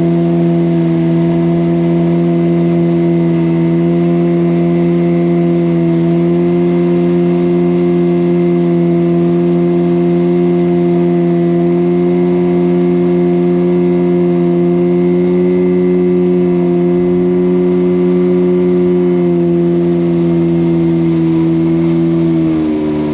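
Motorboat engine running steadily under way, a strong even drone, that drops in pitch and level near the end as the throttle is eased back.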